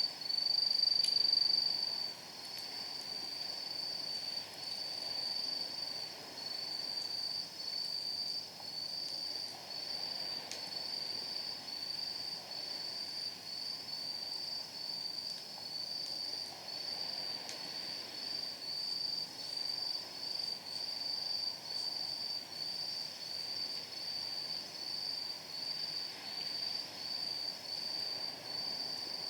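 Night insects calling in a steady pulsing chirp, a little over one pulse a second, loudest in the first couple of seconds. A few faint crackles from a wood fire burning in a steel fire pit.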